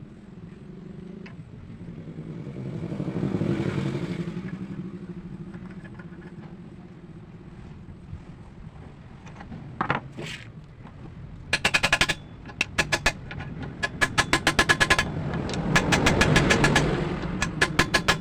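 An engine running and revving up twice, swelling and easing off. In the second half, runs of sharp, ringing clicks come several a second.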